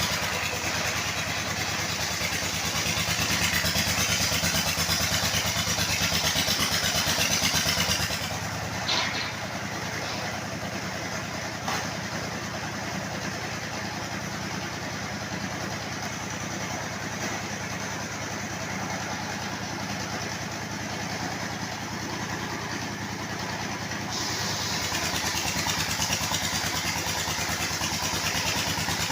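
Engine-driven circular sawmill running steadily. About eight seconds in the sound drops quieter and duller for some sixteen seconds, with a couple of brief clicks, then comes back up to full level.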